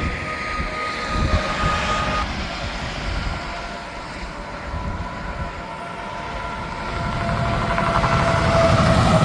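Tractor-trailers going by on an interstate highway: a steady tyre and engine roar with a whining tone that falls in pitch as a truck passes. It eases off in the middle and builds again near the end as another truck approaches and goes by.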